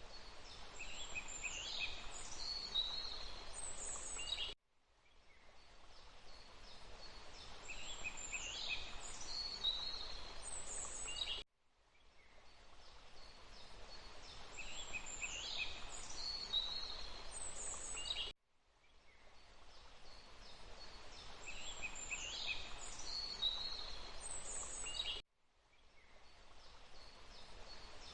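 Songbirds chirping over a steady rush of water, in a short looped forest recording of about seven seconds. The loop repeats the same bird phrases each time, and every restart cuts briefly to silence and then fades back in, four times here.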